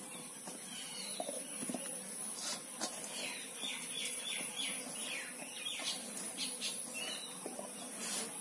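Birds calling, with a run of quick falling chirps about three to five seconds in and scattered lower clucking calls typical of chickens.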